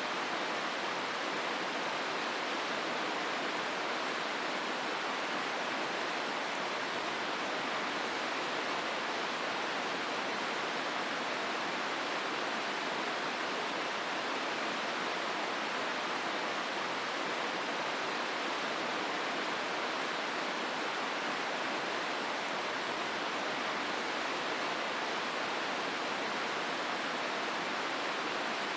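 Hozu River flowing through its gorge: a steady, unchanging rush of water.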